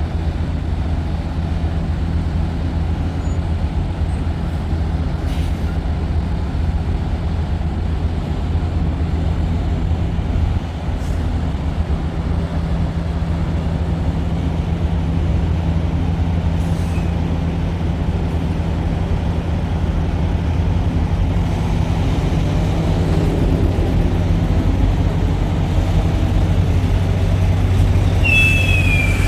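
Semi-truck diesel engine running steadily, a low drone with no break. A brief high falling squeal sounds just before the end.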